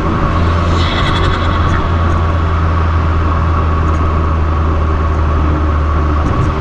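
Fiat 500 Abarth's 1.4-litre turbocharged four-cylinder engine through an MPx cat-back exhaust, with a steady low drone while driving at an even speed. There is a short higher hiss about a second in.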